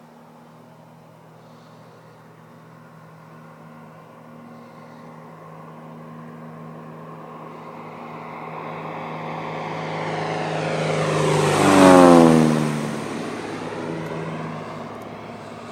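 Propeller-driven Dakota aircraft making a fast low pass overhead. The engine drone builds steadily for about ten seconds and peaks loudly about twelve seconds in, where its pitch drops sharply as the planes go by. It then fades away.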